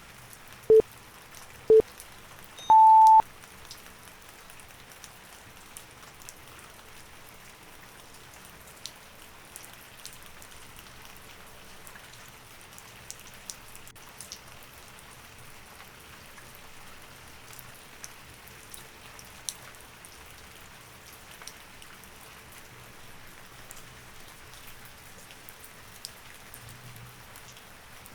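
Timer countdown signal: two short beeps about a second apart, then one longer, higher beep about three seconds in, marking the start of a Pomodoro study session. Steady rain runs underneath, with scattered drops ticking.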